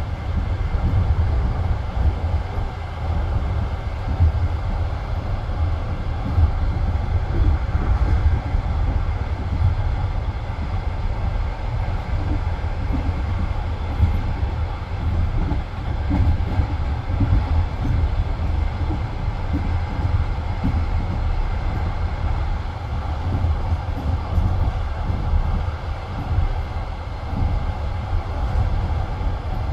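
Passenger train carriage running along the track: a steady low rumble of the wheels on the rails, with irregular knocks from the wheels passing over the rail joints.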